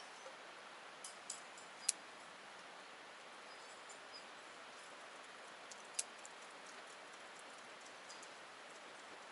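Wood campfire crackling faintly: a soft steady hiss broken by a few sharp pops, the loudest about two seconds in and another about six seconds in.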